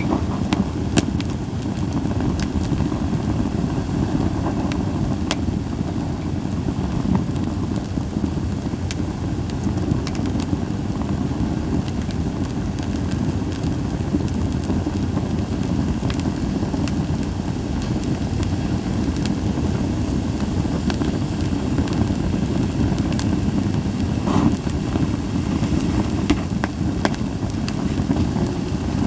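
Japanese white pine campfire burning with a steady low roar of flame and scattered sharp crackles and pops.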